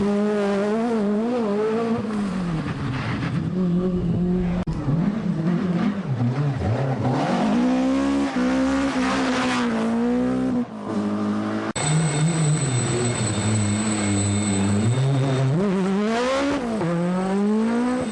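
Group B rally car engines revving hard, the pitch climbing and dropping through throttle lifts and gear changes, in several short clips joined by abrupt cuts.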